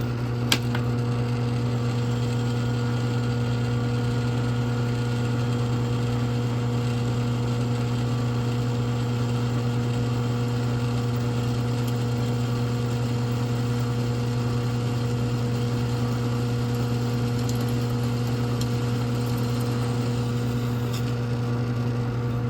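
Steady, unchanging hum of an electric motor in the forge shop, with a sharp click about half a second in.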